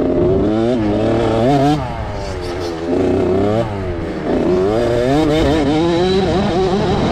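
Motocross dirt bike engines revving hard, their pitch climbing and dropping again and again as the throttle is opened and shut.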